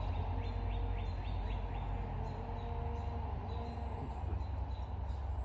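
Outdoor background ambience: a steady low rumble with birds chirping, a quick run of short falling chirps about half a second in.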